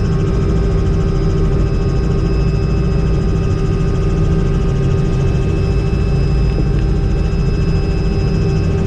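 Helicopter engine and rotor noise heard from inside the cabin in flight: a steady, loud low rumble with a constant turbine whine layered over it.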